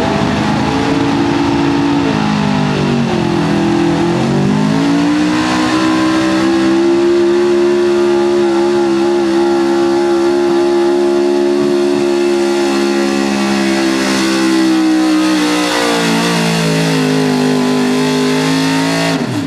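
Modified 4x4 pulling truck's engine held at high revs under load on a sled pull. The pitch dips about three seconds in, climbs and holds steady for about ten seconds, falls back around sixteen seconds in, then drops again near the end.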